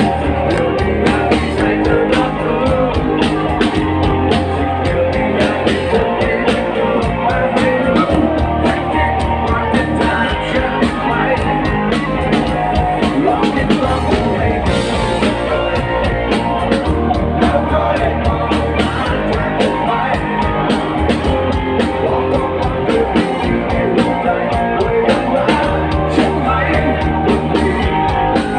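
Rock music played by a band, with guitar, bass and drums keeping a steady beat.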